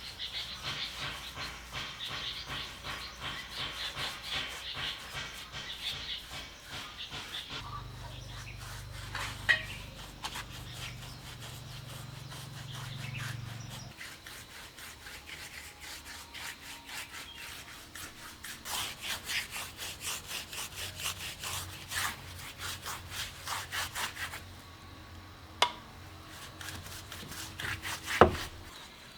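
Rhythmic rubbing strokes on wood in two long runs, with a few sharp knocks, the loudest near the end.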